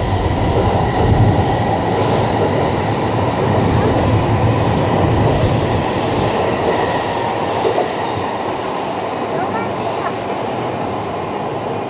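Electric commuter train running along the tracks below: a steady rumble of wheels on rail with high squealing that comes and goes, easing off slightly near the end.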